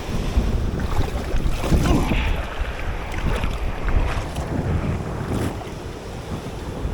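Wind buffeting the microphone over sea waves surging and washing across a reef around a grounded small boat.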